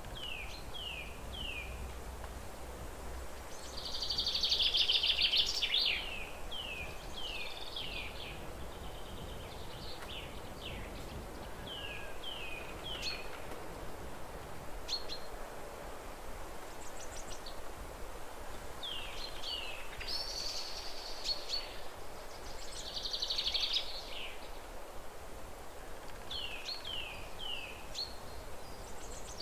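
Birds calling: short chirps sliding downward in quick runs of two to four, with harsh buzzy chatters a second or two long, the loudest about four seconds in, over a steady low background rumble.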